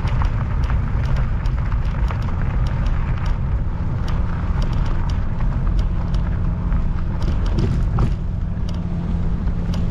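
Jasion EB7 2.0 folding e-bike riding on gravel: steady rolling noise and crunching from the tyres with a low, even hum, and many small clicks from stones. One sharper click comes a little after eight seconds, and wind rumbles on the microphone throughout.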